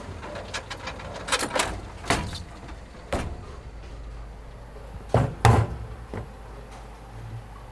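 A series of sharp knocks and clatters, about six in all, over a steady low rumble; the loudest are two close together about five seconds in.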